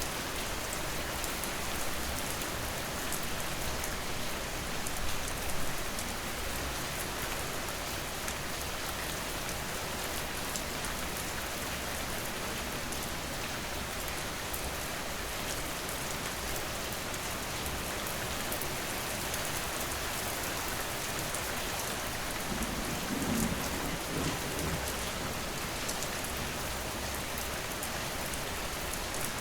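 Steady rain falling, a dense even hiss of drops with fine patter on hard surfaces. A brief low rumble comes about three-quarters of the way through.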